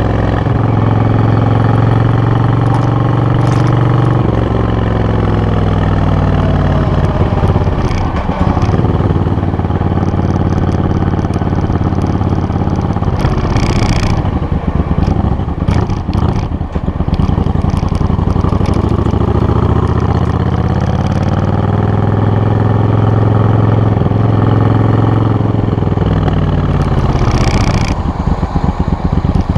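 Suzuki VS800's V-twin engine running loud, its pitch steady at first, then shifting down and up as the revs change, with rougher, noisier stretches in the middle.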